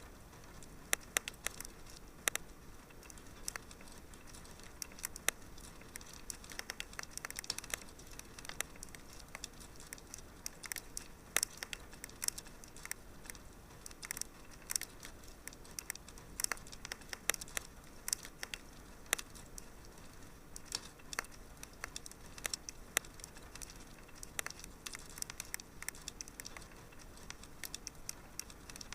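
Wood fire in a fireplace crackling: irregular sharp pops and snaps, several a second, over a soft steady hiss of burning.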